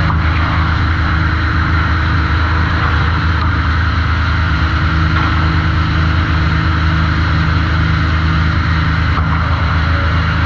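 Sawmill machinery running steadily: a loud, even low drone with a constant pitch, without any rise or fall.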